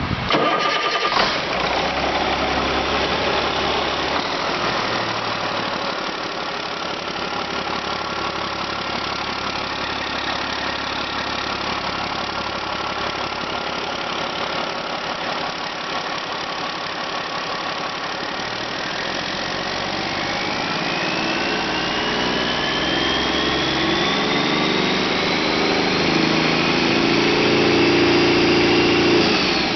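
Caterpillar C12 inline-six truck diesel engine running steadily at idle. About two-thirds of the way through it revs up, with a whine that climbs steadily in pitch, and the whine drops away sharply right at the end as the throttle comes off.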